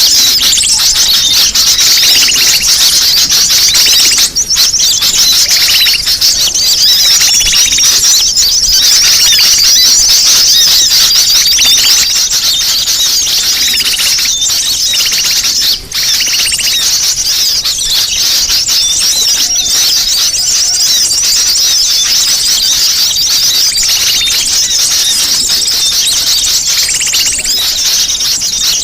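Several sunbirds calling in an agitated, noisy chorus: a dense, unbroken stream of high, rapid twittering and squeaky chirps, with two brief dips, one about four seconds in and one about sixteen seconds in.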